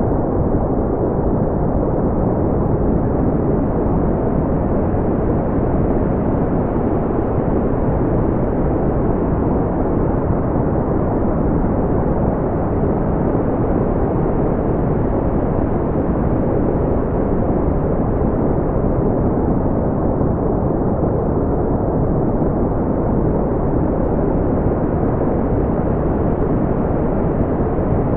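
Smoothed brown noise: a steady, deep, even rumble of noise with no events, its energy mostly in the low range and rolled off above the upper mids.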